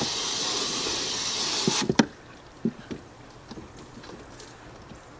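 Garden hose jet nozzle spraying water onto air conditioner coil fins: a steady hiss that cuts off abruptly about two seconds in with a couple of sharp knocks, followed by a few faint taps.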